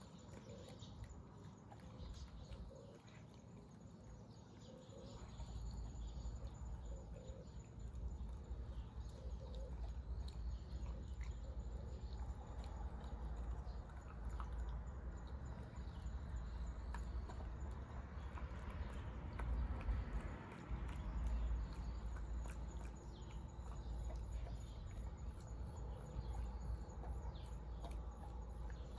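High-pitched insect chirping in a fast pulsing rhythm, clearest in the last few seconds, over a steady low rumble.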